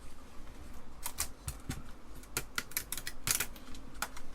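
Irregular sharp clicks and ticks of hand work on an Apple II Plus keyboard, as a thin RF shield sheet that was stuck to it is worked loose.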